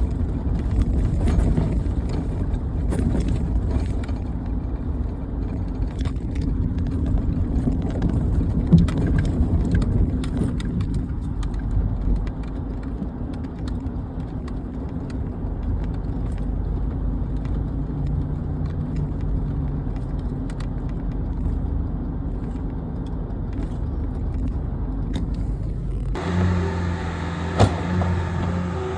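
A vehicle engine running steadily. About 26 seconds in, the sound cuts to a different engine idling with an even hum. A sharp knock is heard about 9 seconds in, and another shortly before the end.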